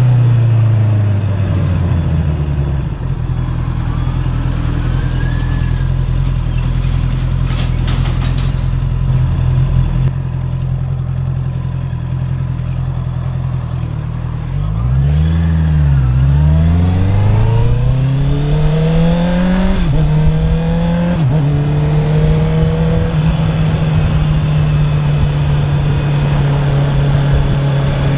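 Honda CB650R inline-four with an Akrapovic exhaust: the engine note drops as the bike slows in the first few seconds, then runs low and steady. About halfway through it revs up through the gears, with sharp quick drops in pitch at each quickshifter upshift, and settles into a steady cruise for the last several seconds.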